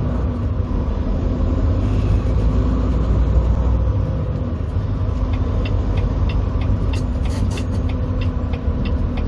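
Semi truck's diesel engine running at low speed, a steady low rumble heard from inside the cab. A light, regular ticking joins about five seconds in.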